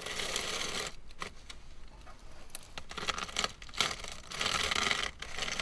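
Old cabin air filter being pulled out of its housing and handled: its paper pleats and frame rustle and crinkle in two stretches, with a few light clicks and knocks between.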